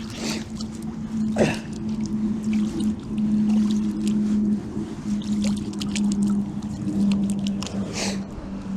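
A steady, even-pitched motor hum, with scattered light clicks and knocks over it.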